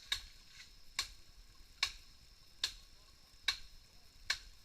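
Sharp ticks repeating evenly, a little more than once a second, six times, with no other sound between them.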